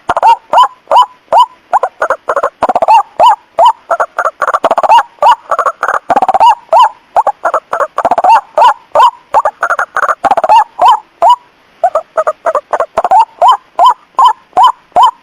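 White-breasted waterhen calling: short, rapidly repeated notes, a few each second, that become crowded and overlapping from about two seconds in until about eleven seconds in, then settle back into an even series.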